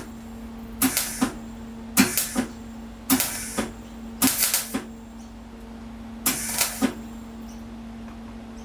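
MIG welder laying short tack welds on sheet steel: five crackling bursts of about half a second each, roughly one a second with a longer pause near the middle, over a steady low hum.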